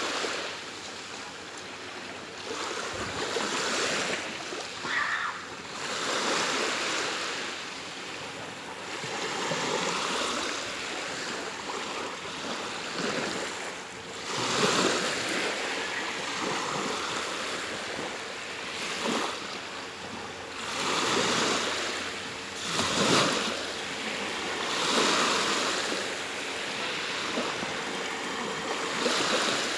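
Small sea waves breaking and washing up the shore, a hiss that swells and fades every few seconds.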